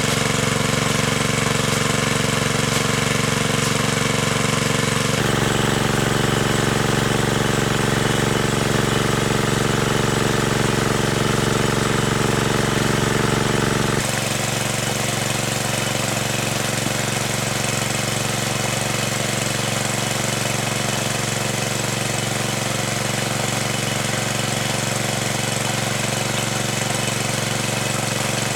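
A small engine running steadily, its sound shifting abruptly about five seconds in and again about halfway through.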